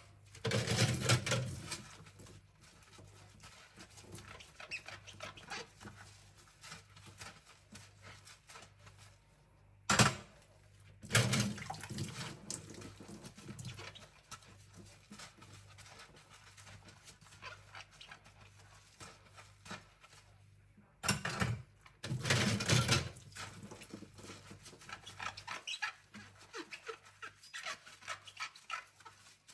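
Cutlery being scrubbed by hand at a sink: sharp metal clinks about three times, each followed by a few seconds of sponge scrubbing, with quieter scrubbing in between and a faint steady low hum under it all.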